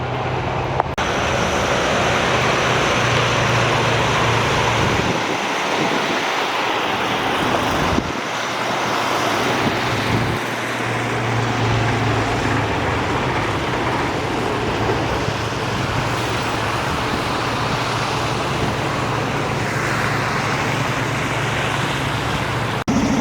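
Motor vehicle traffic: a steady low engine hum under a haze of road noise, the hum fading out twice for a few seconds partway through.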